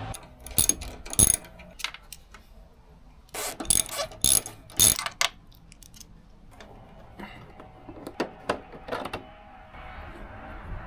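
Scattered sharp clicks and knocks of hand tools and fasteners on the plastic gas tank cover fairing as it is being taken off the motorcycle. There are a couple of clicks near the start, a quick cluster in the middle, and a few more near the end.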